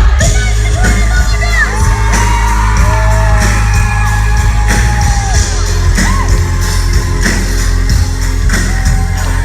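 Live pop-rock band playing loudly with a sung vocal line over a heavy, booming bass, and whoops and shouts from the crowd in a large hall.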